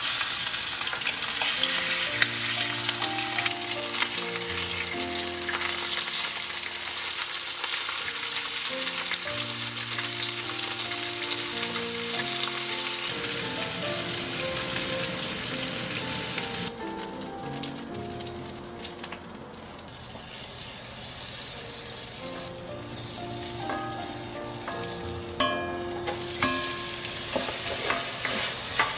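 Food frying and sizzling in a hot pan as it is stirred. The sizzle is strong for the first half, eases off for a while after the middle, and picks up again near the end, with soft background music underneath.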